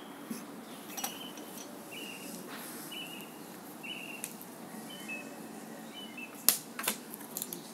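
A bird calling in short, flat, high notes about once a second over a steady background hum, with a few sharp clicks about six and a half seconds in, the loudest sounds.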